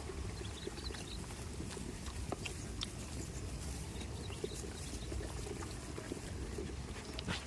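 Goats moving about: scattered small clicks and knocks over a steady low rumble.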